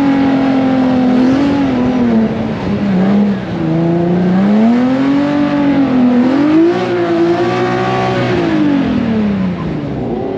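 Infiniti G37 drift car's V6 engine held at high revs, its pitch swinging up and down several times as the throttle is worked through a drift, then falling away near the end.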